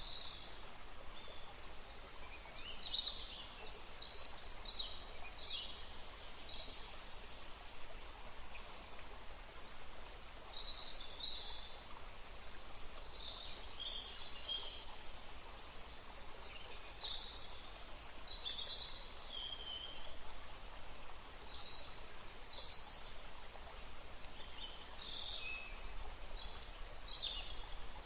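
Woodland ambience: several birds calling and chirping, short high calls coming every second or two, over a steady soft background hiss.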